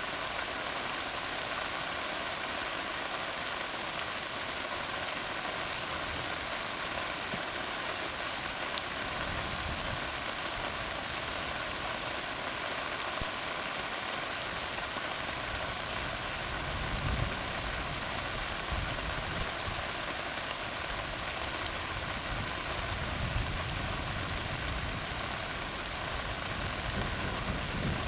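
Steady rain falling on a tar road, with scattered sharper drop hits. Low rumbles of distant thunder come in about a third of the way through and again in the second half.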